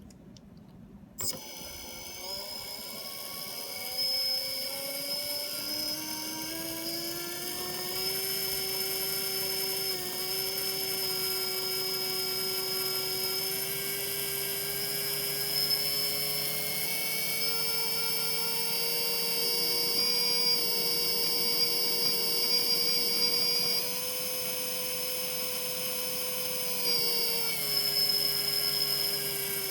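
A spinning machine with bad bearings starting up about a second in: a whine with several tones rising in pitch as it comes up to speed, then running steadily with a high ringing whine, and dropping slightly in pitch near the end.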